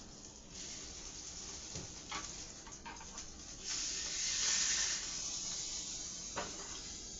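Chicken nuggets sizzling in a pan of butter and hot sauce, swelling to a louder hiss about four seconds in, with a few light clicks of a utensil.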